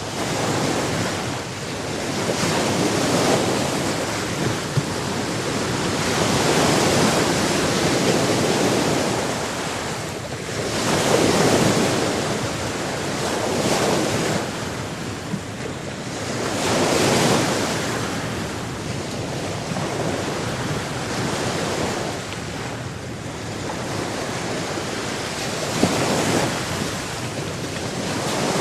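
Sea surf: waves breaking and washing in, swelling and ebbing every three to six seconds over a steady rush of water.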